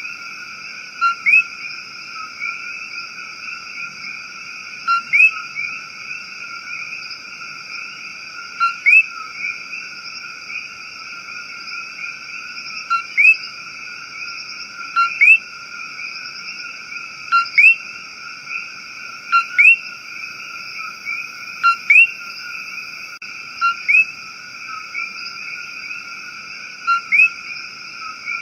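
Rainforest frog chorus: a steady high trilling drone in three pitch bands. Over it, a short rising chirp call repeats about every two seconds, often in quick pairs.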